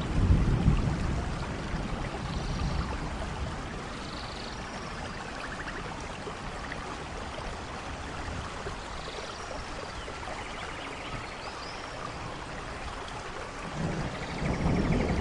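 Steady rainfall in a rainforest, with a low rumble of thunder at the start that fades and builds again near the end. Short chirps and buzzy trills of small animals sound through the rain.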